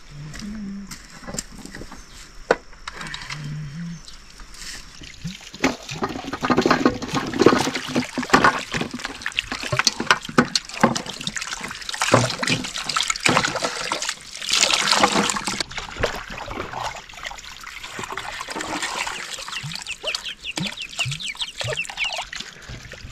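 Water splashing and sloshing in irregular bursts, busiest in the middle, then settling to a fainter trickle near the end.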